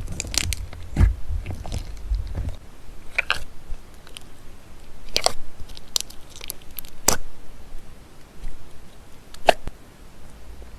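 Crunchy slime being pressed and squeezed by hand, giving irregular crackling with a few sharp pops spread through.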